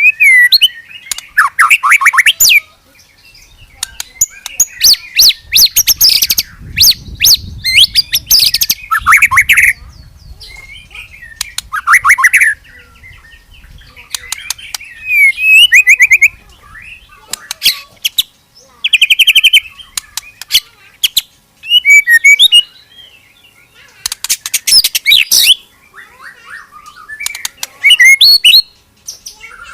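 A murai, a white-rumped shama, singing in loud bursts every two to three seconds. The bursts are rapid rattling trills and sweeping whistles, the 'nembak' (firing) style of song, with softer chirps between them. A faint low rumble runs underneath for the first half or so.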